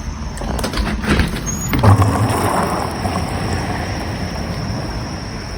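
Wheels rolling on wet pavement, heard as a steady rushing noise that swells about two seconds in and then slowly eases off, with a few short knocks just before it.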